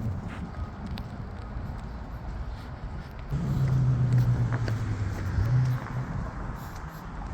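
Road traffic rumble, with a vehicle engine's low steady drone growing louder for about two and a half seconds in the middle before dropping away.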